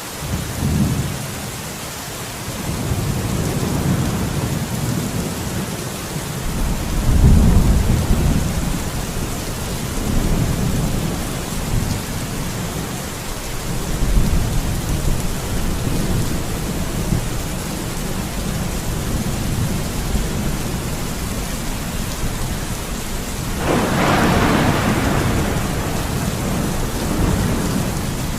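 Steady heavy rain with thunder rolling several times, deep low rumbles swelling and fading, and a sharper crackling peal near the end.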